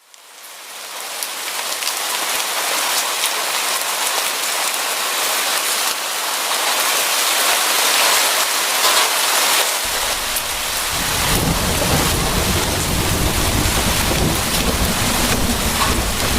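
Steady heavy rain, fading in at the start, with a low rumble of thunder coming in about ten seconds in and rolling on.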